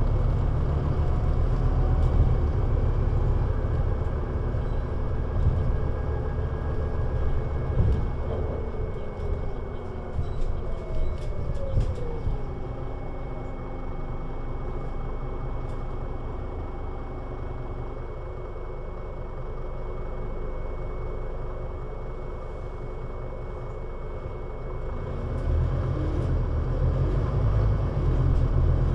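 Scania Citywide LFA articulated city bus (CN320UA 6x2/2) engine: it runs loudly under load, winds down as the bus slows from about eight seconds in, and runs quietly and steadily for around ten seconds. It then builds up again as the bus pulls away near the end, with a steady thin high whine underneath throughout.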